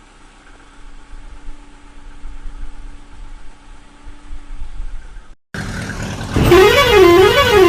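A low vehicle engine rumble that swells and ebbs, cut off abruptly about five seconds in. A police siren then starts, its pitch rising and falling quickly and evenly, and is the loudest sound.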